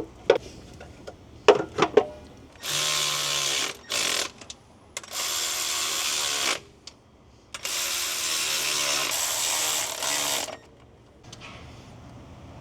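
Handheld power tool running in four bursts of about one to three seconds each, with a motor hum whose pitch shifts under load. A few sharp metal clicks and knocks come before the first burst.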